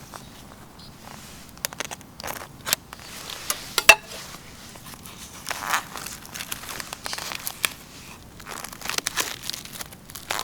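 Crinkling and rustling of something being handled, with irregular sharp clicks and knocks; the loudest click comes about four seconds in.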